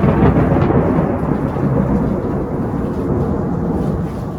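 Close thunder: a sudden loud crack followed by a long rumble that slowly fades, with rain falling underneath.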